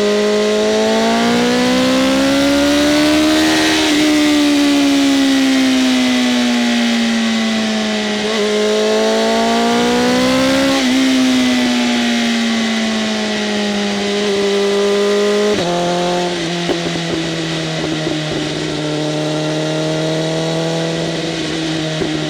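BMW M1000RR's inline-four engine, breathing through an SC-Project CRT exhaust with its flaps open, pulling under load. The note rises for about four seconds and eases off, then rises and falls again. About fifteen seconds in the pitch drops suddenly, and the engine settles into a lower, steady note with a few short pops.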